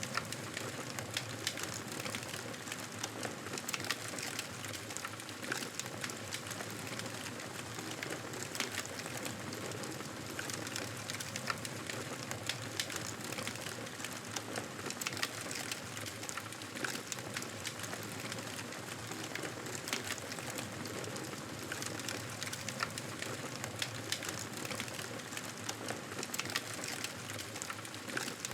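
Wood fire crackling in a fireplace: a steady hiss with frequent small, sharp snaps and pops.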